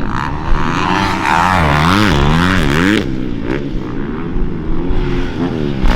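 Dirt bike engine revving up and down as the throttle is repeatedly opened and closed, the pitch rising and falling every half second or so, with a short drop about three seconds in before it picks up again.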